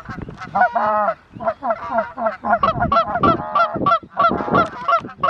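Canada geese honking: a rapid run of short, overlapping honks from several birds.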